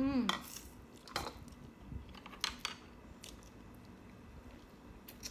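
A short call that rises and falls in pitch, then several sharp crinkles and clicks of plastic instant-noodle seasoning sachets being handled and squeezed open.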